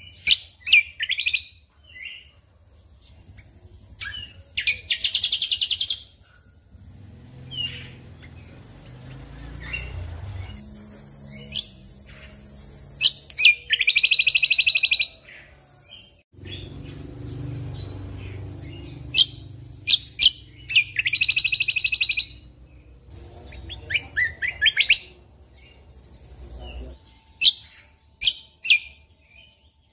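Cucak kombo (kecial kombok) songbird singing: sharp high chirps and short whistled notes, broken three times by a rapid trilled phrase of about a second and a half. A low rumble runs underneath through much of the middle.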